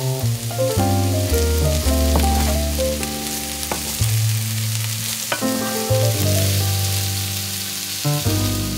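Diced potatoes, sliced onion and red bell pepper strips sizzling in oil in a frying pan while being stirred with a wooden spatula, over background music with sustained notes and a bass line.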